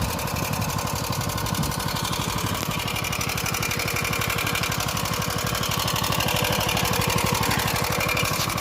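Motor Sich walk-behind tractor's engine running steadily with an even, fast pulse while the machine tills the soil by itself.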